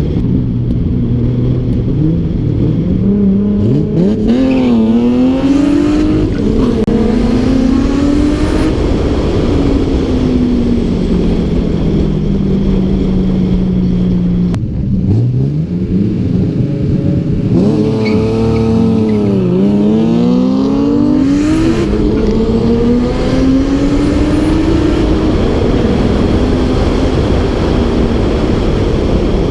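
Car engine driven hard, its pitch climbing and falling several times as it revs, shifts and slows.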